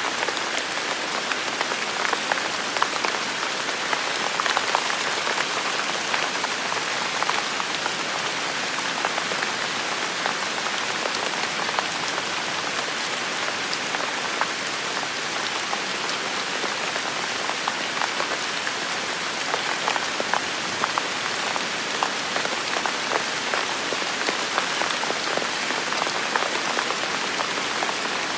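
Heavy rain falling steadily, a dense hiss dotted with the ticks of individual drops hitting close by.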